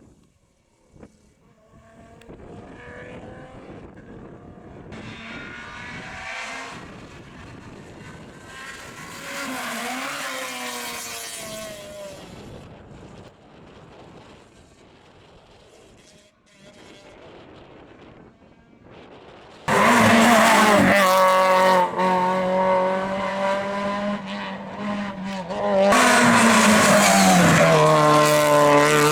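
Rally car engine at full attack, heard faintly at first with its pitch rising and falling through gear changes, then suddenly loud and close about two-thirds in, with the revs held and then dropping in steps as it shifts down.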